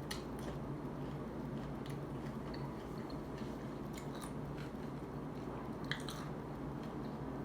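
Close-up chewing of a bite of crunchy tostada topped with shrimp ceviche, with scattered crisp crunches over a steady low hum.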